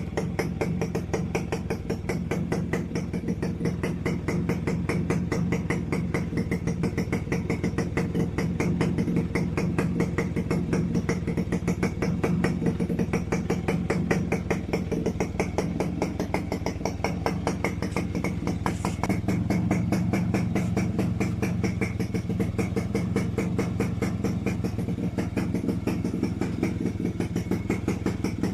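Suzuki RC100's single-cylinder two-stroke engine idling steadily with an even, rapid pulse; its note shifts slightly about nineteen seconds in.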